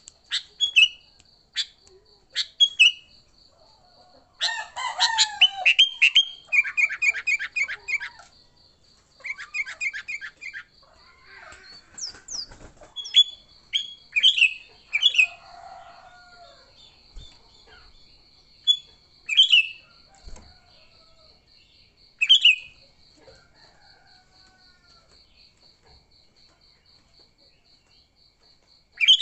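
Sooty-headed bulbuls (kutilang) calling in agitated 'fighting' calls: sharp single call notes, a burst of rapid chattering about four seconds in, another run of calls a few seconds later, then scattered single calls. A faint, steady, pulsing high tone runs underneath.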